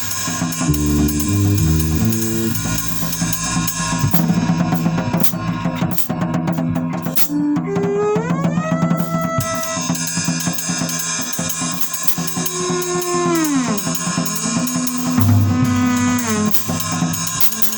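Improvised duet of bass and drum kit: busy drumming with bass drum, snare and cymbals under it. The bass plays a few low stepped notes near the start, then pitched notes that glide upward about eight seconds in and bend downward later on.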